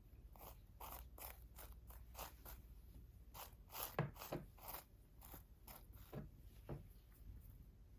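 Faint, irregular crunching and scraping sounds, roughly two or three a second, a little louder about four seconds in.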